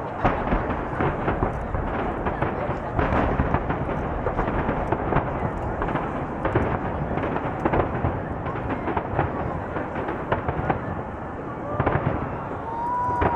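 Aerial firework shells bursting in rapid, continuous succession: many sharp bangs following each other with barely a pause.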